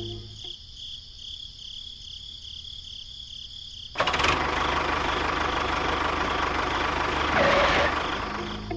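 A small motor switches on suddenly about four seconds in and runs with a steady, noisy whirr, fading out near the end; before it there is only a faint low hum.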